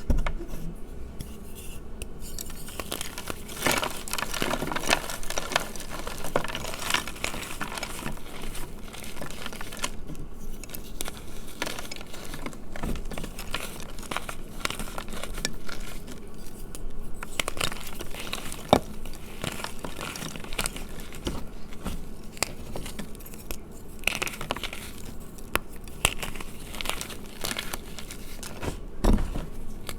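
Gym chalk being crushed: dense, crunchy crackling and crumbling with many sharp snaps. There are short lulls about ten and sixteen seconds in.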